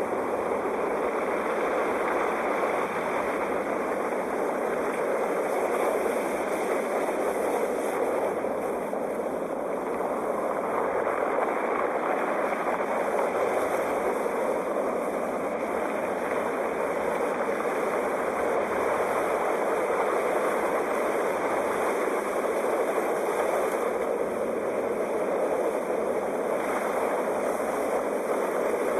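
Sea waves washing in: a steady rush of surf that swells and eases gently every several seconds.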